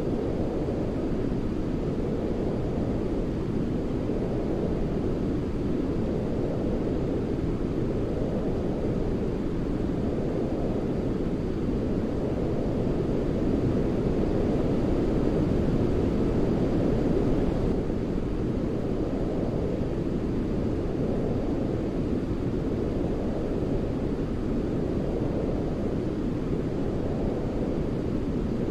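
Continuous sleep-noise track for soothing a baby, a steady deep rumbling hiss weighted to the low end, like brown noise, with slow gentle swells and a slightly louder stretch about halfway through.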